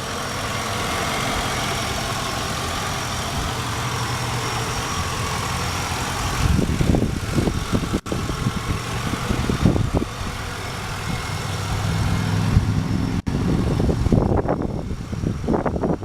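Lincoln Town Car's 4.6-litre V8 idling steadily, with a thin high whine over it. From about six and a half seconds in, irregular knocks and rustles come in over the idle.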